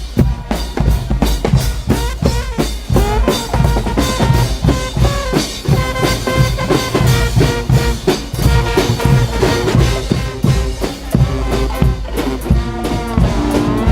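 A carnival band playing loudly: a steady beat of bass drum and snare, with brass notes coming in about four seconds in and swelling near the end.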